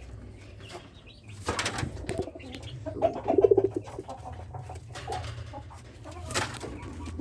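Domestic pigeons cooing, the loudest coo about three seconds in, with two short sharp knocks and a steady low hum underneath.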